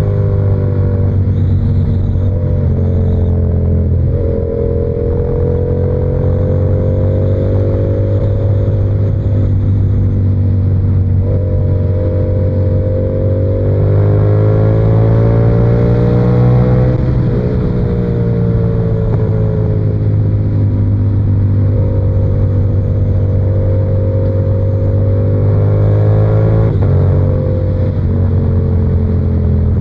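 Yamaha R7's 689 cc parallel-twin engine through an SC-Project exhaust, ridden on the road with its pitch climbing and easing off with the throttle. Several sudden steps in pitch mark gear changes.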